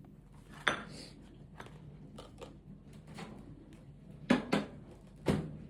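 A few sharp clicks and knocks of small hard objects being handled, over a faint steady hum.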